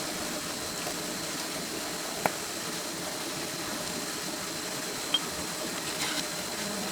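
Steady noisy background with two single sharp clicks, about two seconds in and about five seconds in, from hand work on tractor parts being dismantled.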